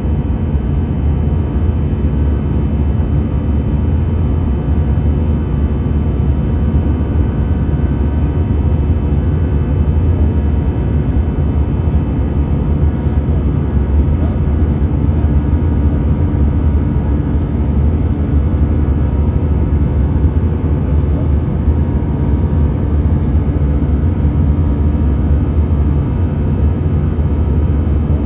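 Airbus A320 jet engines and airflow, heard as a steady, loud low rumble with a set of steady whining tones above it and no change in pitch.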